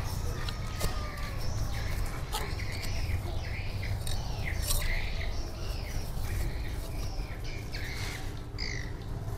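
Birds squawking and chirping in a quick run of short calls, thickest through the middle and later part, with a few sharp clicks among them.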